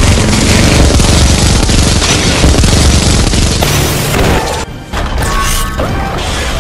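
Added explosion sound effect: a long, loud rumbling blast with crackle, over background music, breaking off about four and a half seconds in, followed by shorter effects with ringing tones.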